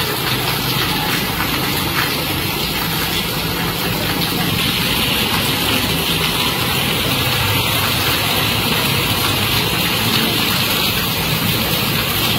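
Heavy rain pouring down in a steady hiss, with a low rumble of vehicle engines underneath.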